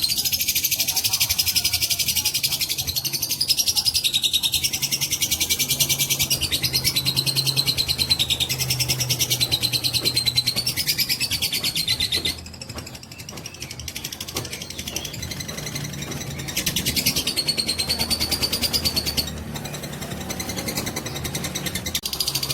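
Lovebird giving a long, very rapid chattering trill (the 'ngekek' song of a fighter lovebird), the kind of recording used as a trigger sound to provoke other lovebirds to sing. The chatter steps down in loudness about halfway through and again near the end.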